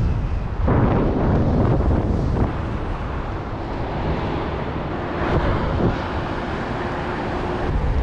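Wind rushing and buffeting over the microphone, a steady rough roar heaviest in the low end.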